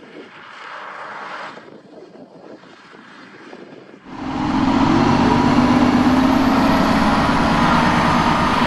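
Large farm tractor's diesel engine: a quieter rumble and hiss for the first few seconds, then about four seconds in the engine comes in loud and runs steadily, its pitch rising slightly.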